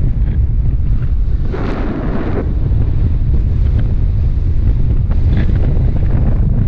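Airflow buffeting the microphone in flight under a paraglider: a loud, steady low rumble of wind noise, with a brighter rushing gust from about one and a half seconds in, lasting about a second.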